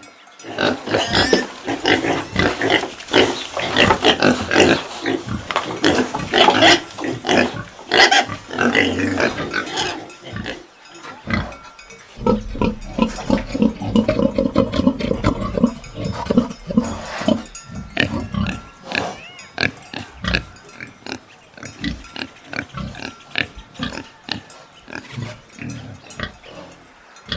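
Domestic pig grunting and calling: dense and loud for the first ten seconds or so, lower and deeper grunts in the middle, then scattered short grunts.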